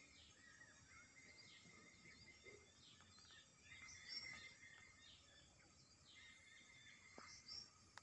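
Faint bird calls in a tree: many short chirps and whistles overlapping, a little louder about four seconds in, over a steady thin high tone. A single sharp click comes near the end.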